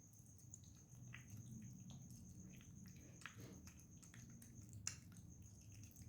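A cat chewing food with faint, irregular wet clicks and smacks.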